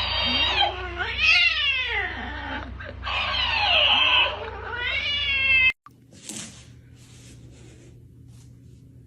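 Domestic cat yowling: a run of long, loud, drawn-out calls that slide up and down in pitch. They stop abruptly about five and a half seconds in, leaving only faint short taps.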